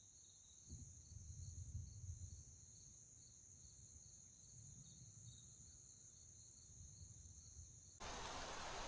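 Faint steady trilling of crickets and other insects in woodland, with soft low rumbles twice in the first half. Near the end a steady hiss comes in suddenly.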